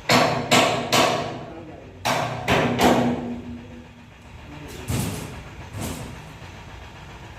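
Hammer striking metal, three sharp blows in quick succession, then three more about two seconds later that leave the metal ringing briefly, followed by two lighter knocks.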